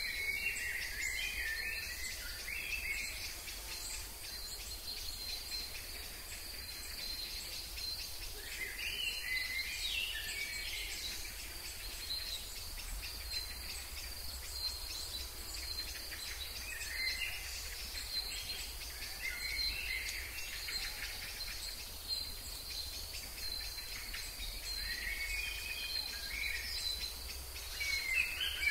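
A bird singing short warbled phrases every few seconds, over a steady high-pitched insect drone.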